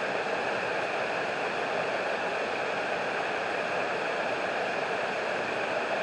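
River water spilling over a 19th-century gristmill dam: a steady, even rush of falling water.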